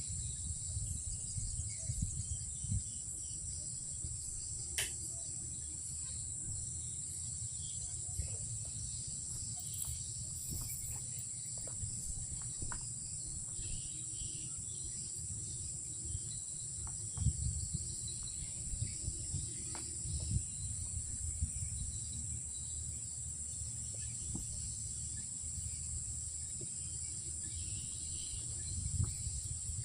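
Insects, crickets by their steady high-pitched chorus, trilling without a break, over a low rumble with a few dull thumps.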